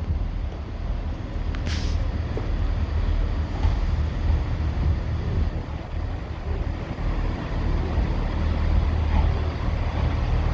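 Diesel train engine running with a steady low rumble, with one short hiss of released air about two seconds in.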